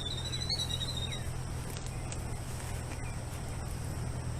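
Killdeer calling: a wavering high trill in the first second, then a few short falling notes, over a steady low hum.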